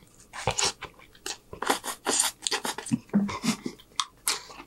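Close-miked wet chewing and lip-smacking of a mouthful of noodles, in many short irregular smacks, with a couple of brief low hums about three seconds in.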